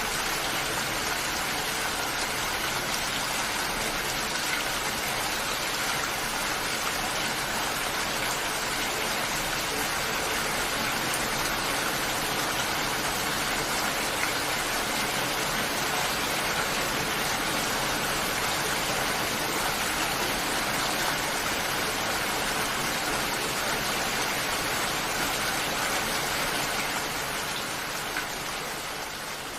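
Steady, heavy rainfall, an even rushing hiss of rain on surfaces, fading down near the end.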